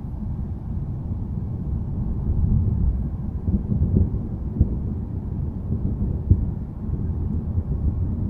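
Low rolling thunder rumbling continuously, swelling a couple of seconds in, with a few brief sharp crackles within the rumble.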